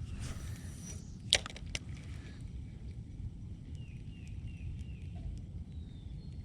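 Open-air ambience on the water: a steady low rumble, two sharp clicks about a second and a half in, and a few faint short high chirps near the middle.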